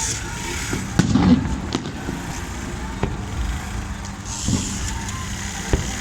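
Fireworks going off: a few sharp bangs, the loudest about a second in, over a steady low rumble.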